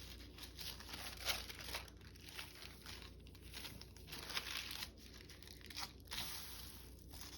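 Sheets of paper being handled and folded by hand: soft, faint rustling and crinkling with a few light taps, the sharpest about a second in.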